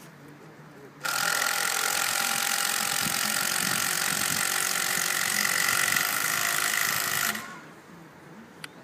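A machine starts up abruptly, giving a loud, steady hissing whir with a whining tone. It runs for about six seconds and then stops.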